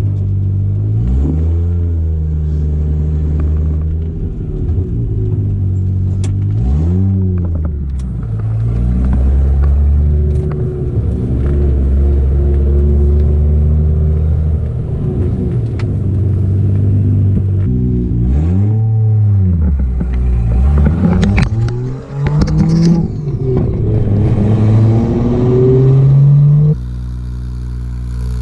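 Mazda RX-7 FD's twin-rotor rotary engine driving, revs climbing and falling again and again as it accelerates and shifts. The sound changes abruptly near the end.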